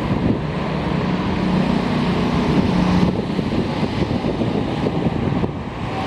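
Semboku Rapid Railway 3000 series electric train running into the station: a steady rumble of wheels and motors, with wind on the microphone.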